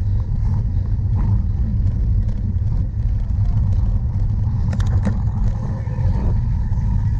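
Rumbling wind and ride noise on a camera carried by a cyclocross bike racing over rough ground, with a few sharp clicks about five seconds in.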